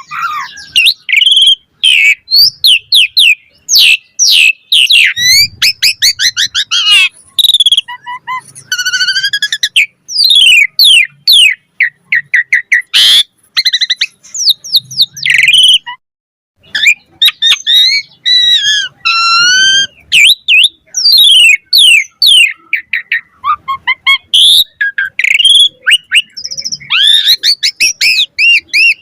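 Asian pied starling (jalak suren) singing a loud, fast, varied song of whistled notes that glide up and down, mixed with rapid chatter. There is a brief pause about halfway through.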